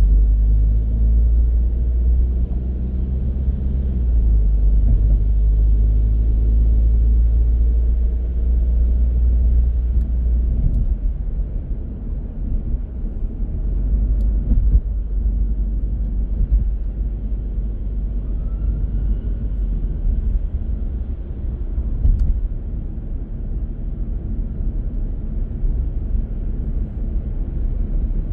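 Car driving: a steady low engine and road rumble. The engine's pitch shifts as it pulls during the first ten seconds or so, then settles into a more even rumble.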